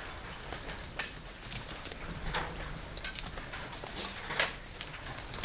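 Hailstones striking hard surfaces in irregular sharp knocks, several a second and uneven in loudness, over a steady hiss of the storm.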